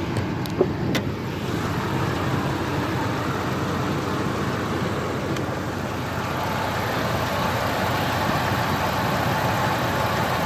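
Ford F-150's V8 engine idling steadily under the open hood, with a few sharp clicks in the first second.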